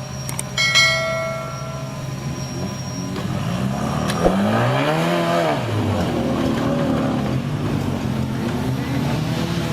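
Off-road 4x4 vehicle engine running and revving, its pitch rising and falling once midway through. About a second in, a sharp metallic clang rings out for a couple of seconds.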